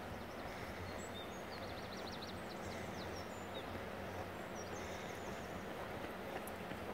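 Small birds chirping in short, high twittering phrases, mostly about a second in and again around five seconds in, over a steady rumble of outdoor wind noise.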